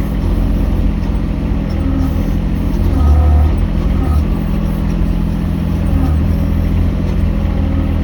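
Mini excavator engine running steadily under working load, with its note shifting slightly a few times as the machine works.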